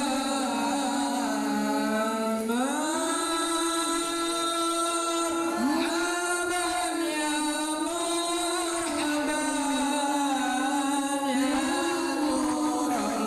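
Sholawat (devotional praise of the Prophet) sung in long, drawn-out notes that glide slowly up and down, in a chanting style.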